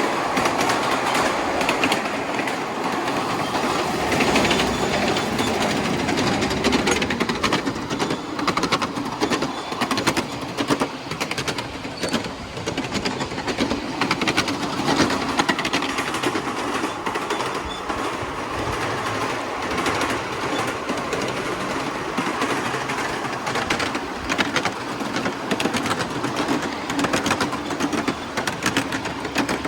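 A 7¼-inch gauge miniature live steam train running on its track, with a steady rolling noise and many sharp clicks of wheels passing over rail joints.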